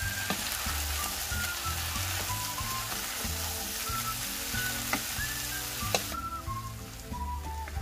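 Stir-fried wide rice noodles sizzling in a frying pan on the pan's leftover heat, the hob just switched off, as a wooden spatula stirs them, with a few sharp knocks of the spatula against the pan. The sizzle cuts off suddenly about six seconds in, under background music with a melody and bass.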